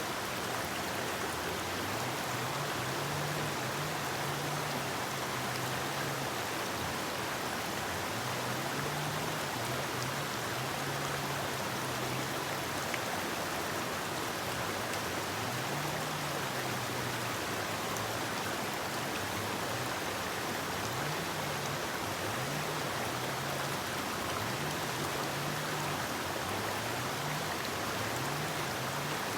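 Forest river flowing: a steady, even rush of running water. Beneath it, a faint low hum steps up and down in pitch.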